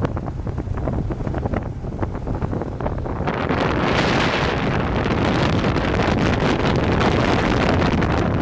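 Wind buffeting the microphone on a moving motorbike, over a steady low rumble of engine and road. The rush gets louder and brighter about three seconds in.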